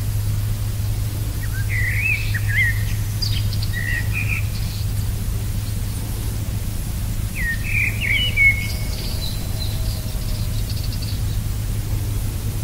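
Birds calling in two short bouts of quick chirps that slide up and down in pitch, one about a second and a half in and another around eight seconds, over a steady low hum.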